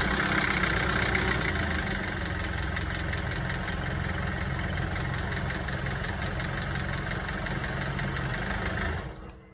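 Nissan Elgrand E50's engine, just started, idling steadily; it stops near the end. It is running again now that the car's main 100 A battery fuse connection has been repaired.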